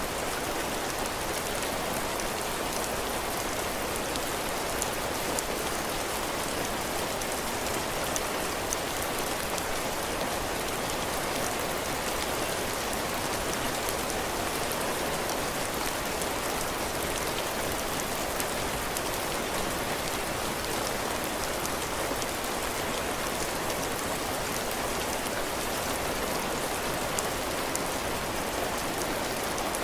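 Steady heavy rain falling on a porch roof and the ground, a dense even hiss with fine drop patter.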